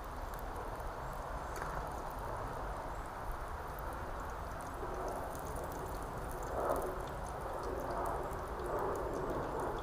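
Sausages frying in plenty of oil in a pan over a campfire: a steady sizzle with scattered small pops and crackles.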